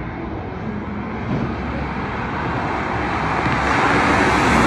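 Car engine and exhaust noise at speed, growing steadily louder as the cars approach.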